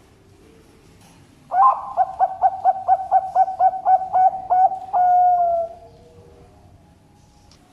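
Zebra dove (perkutut) singing one song: a quick run of about fourteen short cooing notes, ending in a longer held note that falls slightly in pitch.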